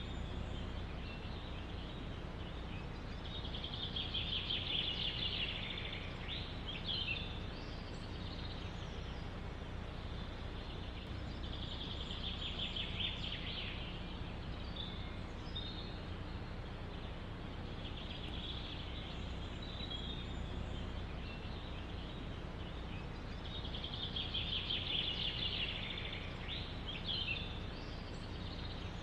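Songbirds chirping in a forest, with a bright song phrase recurring about every six to seven seconds over a steady low background rush of wind.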